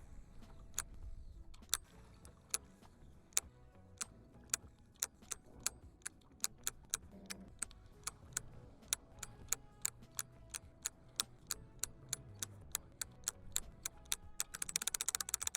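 A series of sharp ticks, about two a second at first, quickening steadily and running into a rapid rattle near the end.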